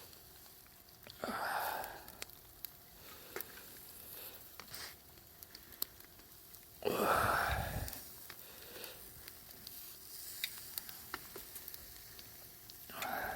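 Wood campfire crackling with scattered sharp pops, broken by three breathy whooshes: about a second in, the loudest around seven seconds in with a low rumble under it, and a short one at the end.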